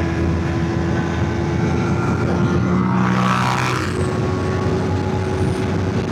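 Motorcycle engine running steadily under way, with a rush of wind and road noise. About three seconds in, a louder rush of noise swells and fades.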